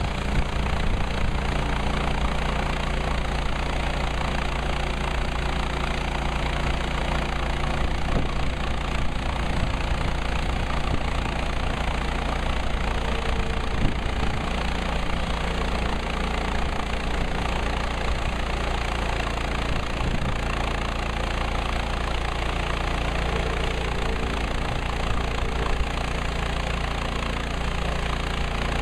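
Portable bandsaw sawmill's gas engine running steadily, with one sharp knock about halfway through.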